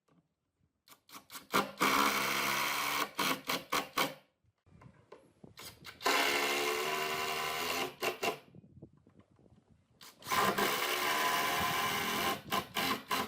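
A small power tool running in three bursts of about two seconds each, with clicks and knocks just before and after each burst.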